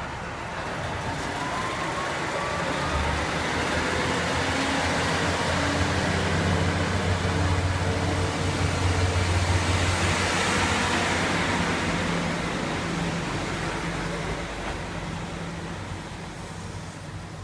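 A vehicle passing: a low engine hum and a wash of noise swell to a peak about ten seconds in, then fade away.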